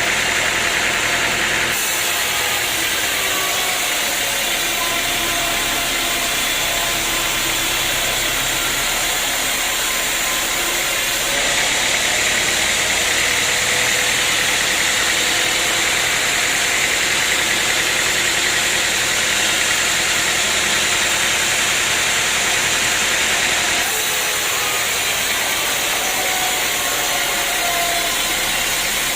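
Sawmill machinery running steadily, a loud, even machine noise with faint wavering tones. The sound changes abruptly about 2, 11 and 24 seconds in.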